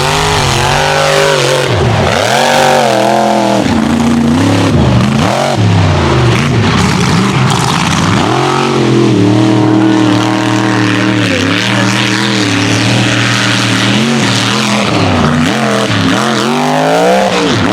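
Mega truck engine revving hard, its pitch climbing and dropping again and again as the throttle is worked around the mud course, with a steadier high-revving stretch in the middle.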